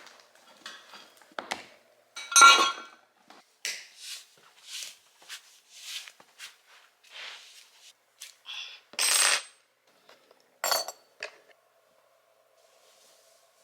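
Kitchen clatter: dishes and utensils being handled and set down, a string of knocks and clinks, a few of them ringing briefly. After about eleven seconds the clatter stops and only a faint steady hum is left.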